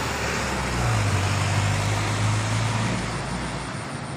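Road traffic at an intersection: vehicle engines running with a steady low hum that grows about a second in and eases off near the end, over a wash of street noise.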